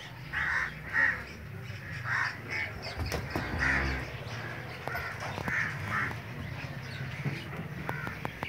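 Birds calling repeatedly in short, harsh calls, one every half second to a second, over a steady low hum, with a brief low rumble about three seconds in.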